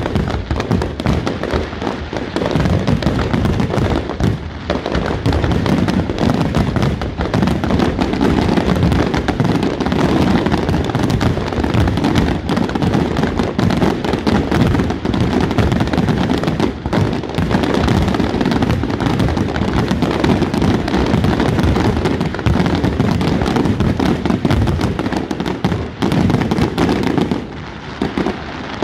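Aerial fireworks display: a dense, continuous barrage of shell bursts and crackling, with deep booms heaviest in the mix, easing off near the end.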